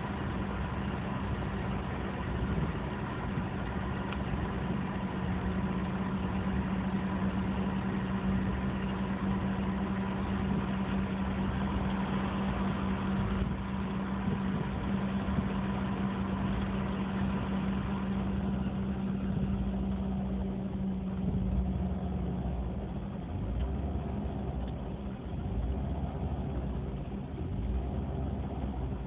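BMW E46 engine idling roughly, with an uneven low rumble and a steady hum that fades out about three quarters of the way through. The owner links the rough idle to a DSC problem.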